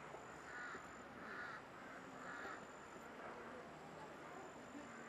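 Three short bird calls in quick succession in the first half, over faint background hiss.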